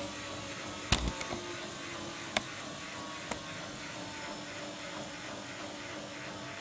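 Washing machine running with a steady hum, and three sharp clicks, the first loudest, within the first three and a half seconds.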